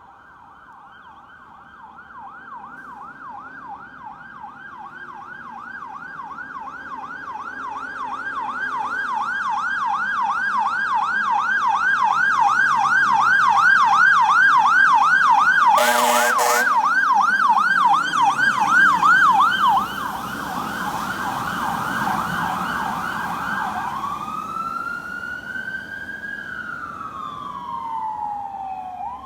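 Electronic siren on a 2014 E-One Cyclone II aerial fire truck responding to a call: a fast yelp that grows louder as the truck approaches, with a short horn blast about halfway. Around four-fifths of the way through, the siren switches to a slow wail that rises and then falls.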